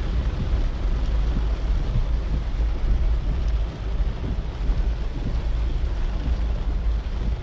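Heavy rain with a steady low rumble of wind on the microphone.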